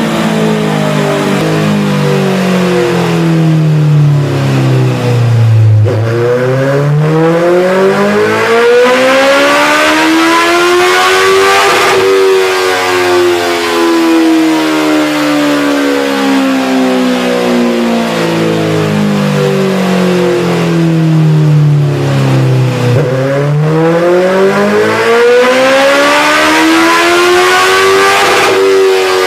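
Honda CBR650F inline-four motorcycle engine with an aftermarket exhaust, its note sweeping down and up in pitch several times in long smooth runs. The pitch falls over the first six seconds, climbs to a peak about twelve seconds in, winds down for about ten seconds, then climbs again near the end.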